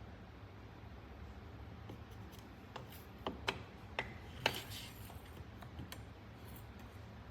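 A few light clicks and taps, bunched from about three to four and a half seconds in, over a faint low hum.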